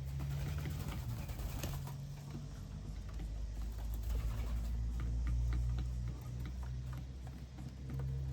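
Small birds feeding, with many light irregular ticks and taps of beaks and feet on the feeder, over a low steady hum.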